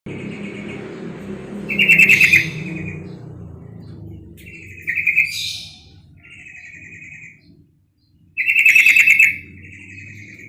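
Female yellow-vented bulbul (trucuk) calling: rapid chattering trills all at about the same pitch. Three loud bursts come about three seconds apart, with softer trills in between.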